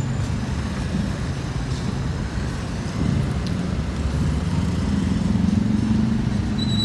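Steady low rumble of a road vehicle running, getting a little louder about three seconds in.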